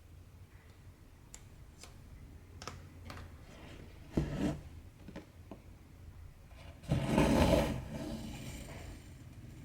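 Hand cross-stitching: a needle and cotton thread being worked through aida fabric. There are light ticks and clicks, then two scraping swishes as thread is drawn through: a short one about four seconds in and a longer, louder one around seven seconds in.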